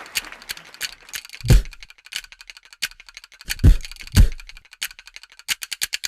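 Sparse percussion break: scattered sharp dry clicks with three deep thumps, closing in a quick run of clicks near the end.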